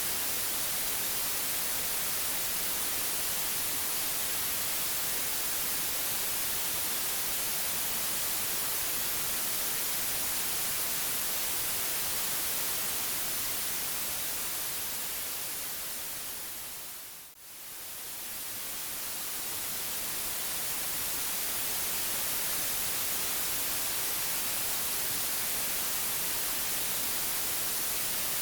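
Steady white noise, a bright even hiss. About halfway through it fades down to a brief dip, then swells back up to full level over several seconds.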